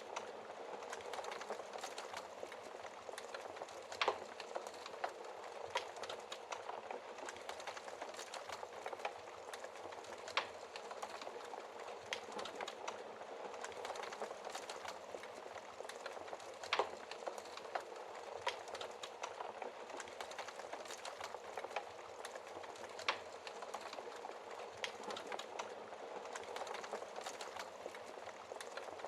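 Wood fire burning with a steady dense crackle and occasional sharper pops of burning wood, the loudest about 4, 10, 17 and 23 seconds in.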